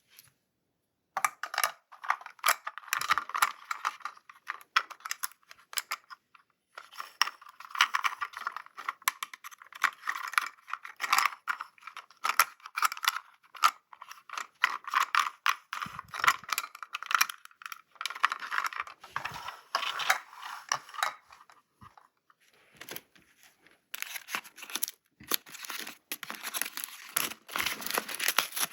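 Toy packaging being unwrapped by hand: crinkling, tearing and small clicks in dense crackly runs, broken by a few brief pauses.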